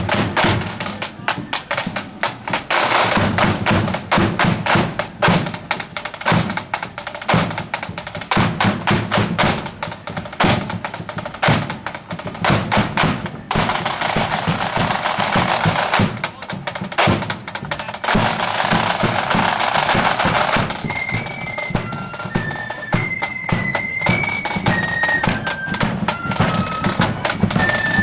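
A marching band's drums play a steady beat with two long snare drum rolls. About three-quarters of the way through, a high flute melody comes in over the drums.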